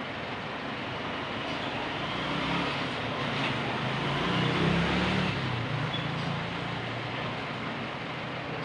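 An engine hums over a steady noisy background, growing louder for a few seconds around the middle and then fading back.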